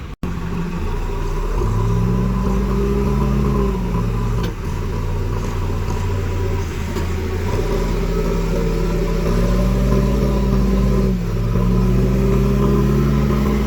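Diesel engine of a JCB backhoe loader revving up and holding high under load, then dropping back, several times over, as it lifts an overturned tractor.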